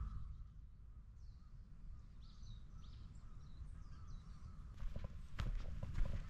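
Faint birds chirping a few times, about two to four seconds in, then footsteps from about five seconds in.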